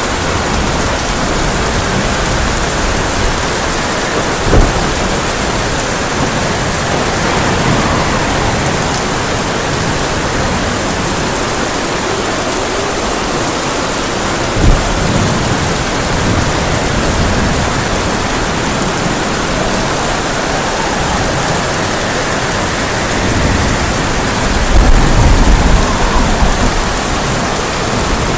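Heavy rain falling steadily on a tin roof, with two sharp thunder cracks about five and fifteen seconds in and a deep rolling thunder rumble near the end.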